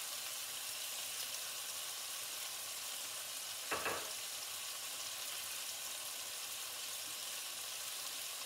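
Steaks and onions frying in a skillet: a steady sizzle. A brief thump comes a little under four seconds in.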